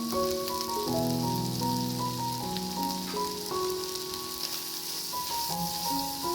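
Food sizzling in a hot pan, a steady crackling hiss, under background music of held melodic notes.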